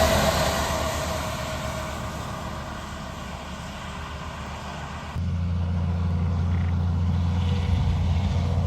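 A passing road vehicle fading away, then, after an abrupt cut about five seconds in, a steady low engine rumble.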